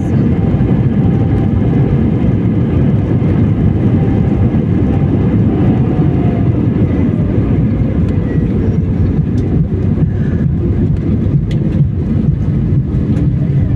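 Airliner cabin noise after landing: a steady, loud rumble of the engines and airframe, with a faint whine that slowly falls in pitch midway.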